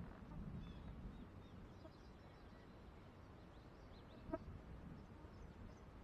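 Faint outdoor quiet with scattered distant bird chirps over a low steady rumble. One short, louder call comes a little past four seconds in.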